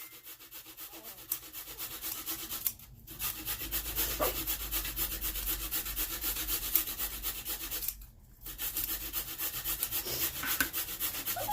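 Cheese being rubbed on a hand grater: steady, fast scraping that stops briefly twice, about 3 and 8 seconds in.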